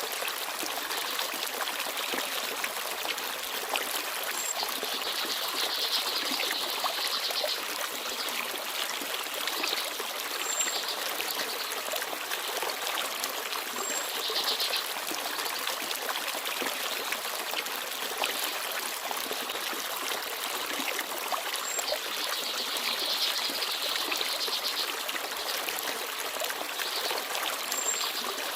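Small forest stream babbling and trickling steadily, with a few faint, short high chirps of small birds now and then.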